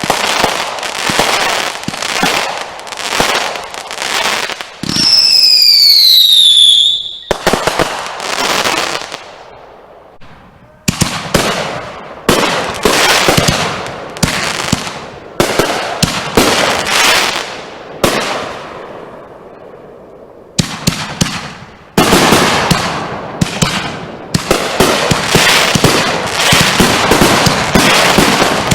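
Consumer fireworks going off in rapid volleys of sharp bangs. About five seconds in, a loud whistle glides down in pitch. There are two short lulls, and a dense barrage of bangs fills the last several seconds.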